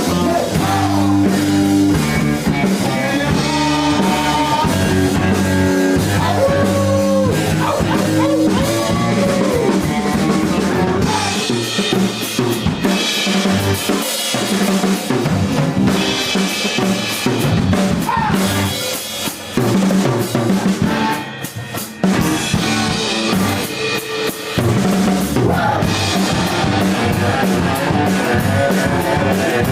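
Rock band playing an instrumental passage with no singing: drum kit, bass and guitar, with bending pitched lines in the first ten seconds. The band briefly drops back about 21 seconds in, then comes back in full.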